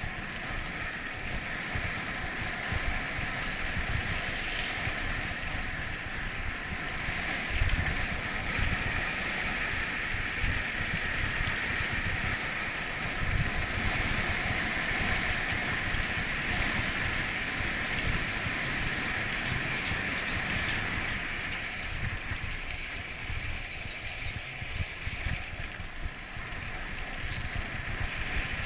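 Steady rushing hiss with irregular low rumbles of wind buffeting the microphone.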